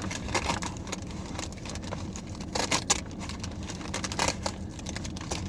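A small takeout bag rustling and crinkling as it is opened and handled, in irregular bursts of crackles over a low steady rumble.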